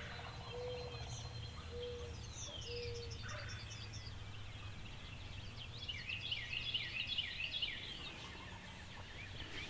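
Songbirds singing fast repeated phrases of short falling notes, with a distant wild turkey gobbler gobbling once about a second in, over a low steady hum.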